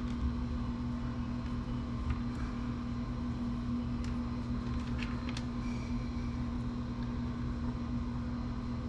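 Steady low machine hum with a constant tone, and a few faint light clicks of small parts being handled.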